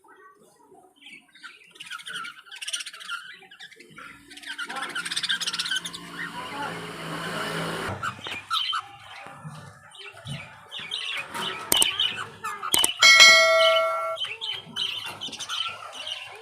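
Budgies chirping and chattering, with many short chirps and a busier stretch of warbling in the middle. Two sharp clicks come about twelve seconds in, followed by a loud steady tone held for about a second.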